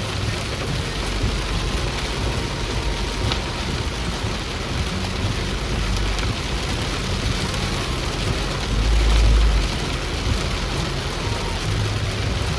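Heavy rain and a vehicle travelling through it: a steady wash of rain and wet-road noise over a low engine rumble, with a louder low rumble swelling briefly about nine seconds in.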